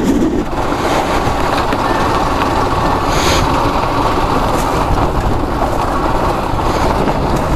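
Motorcycle running along a road, its engine and strong wind rush on the rider's microphone making a steady noise, with a brief hiss about three seconds in.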